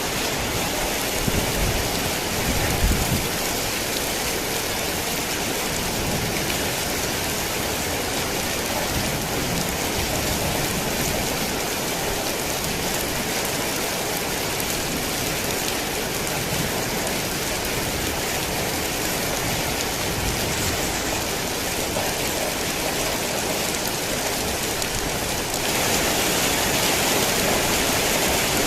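Steady heavy rain falling, a dense even hiss. A low rumble of thunder fades out over the first few seconds. Near the end the rain abruptly becomes louder and brighter.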